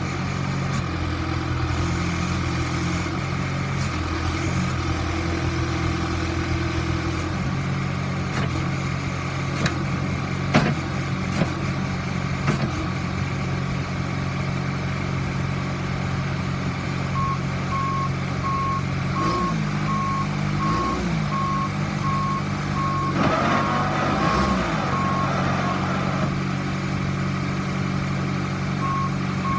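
John Deere 410D backhoe's diesel engine running steadily, with a few sharp clicks and knocks midway and the engine note dipping briefly twice under load. From a little past halfway its backup alarm starts beeping at a steady, even rate as the machine goes into reverse.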